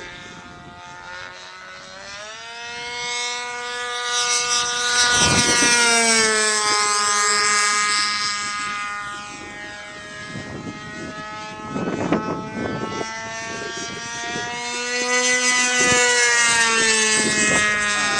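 Radio-controlled model airplane's engine and propeller droning in flight, its pitch rising and falling as it passes close by twice, loudest about five seconds in and again near sixteen seconds.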